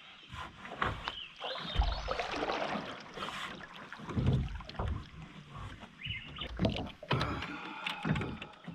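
A small boat being boarded and readied: a run of irregular knocks, thumps and scrapes against the hull.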